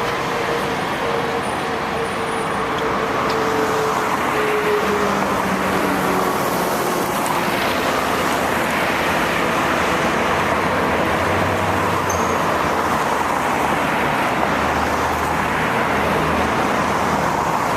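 Steady city road traffic, with vehicles running and passing. Over the first few seconds a faint whine slowly falls in pitch, and later low engine hums come and go.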